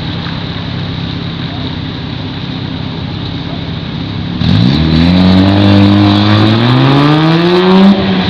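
A steady low engine hum, then about four seconds in, a Datsun 280Z's straight-six launches hard from the start line. Its pitch climbs steadily as it revs out, then drops sharply at a gearshift near the end and starts rising again.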